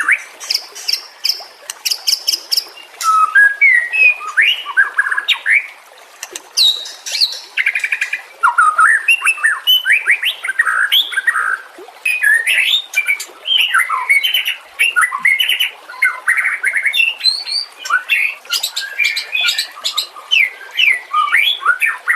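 White-rumped shama singing a rich, varied song: quick runs of whistled notes, slurred glides and rapid high trills in close succession, broken by brief pauses.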